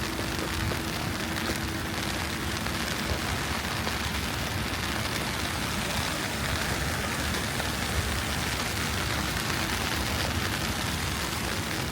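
Steady city street ambience on a snowy night: an even hiss with no distinct events, and a faint low hum in the first few seconds.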